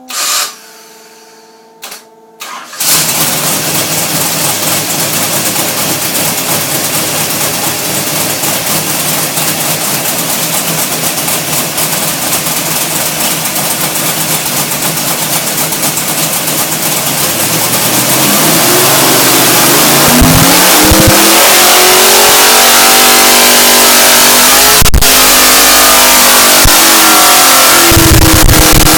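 A 540-cubic-inch big-block Chevrolet engine on a pull, very loud under load. It comes in hard about three seconds in, and its revs climb steadily through the second half.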